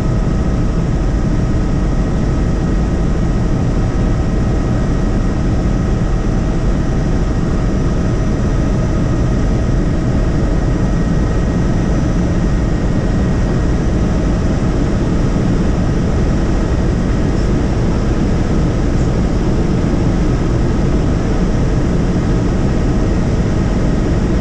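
Helicopter in flight, heard from inside the cabin: a loud, steady drone of engine and rotor with a few constant whining tones above it.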